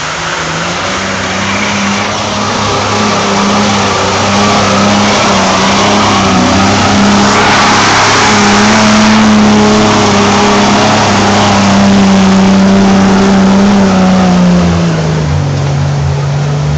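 Off-road 4x4's engine running hard under load as the vehicle climbs a steep muddy track, holding a steady pitch, with a louder rush of noise around the middle, then dropping lower in pitch near the end.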